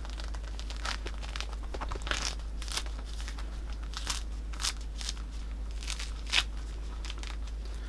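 Thick, bumpy peel being torn by hand off a Sumo citrus (a large mandarin hybrid): irregular short crackly rips and snaps, the sharpest about six seconds in. A steady low hum runs underneath.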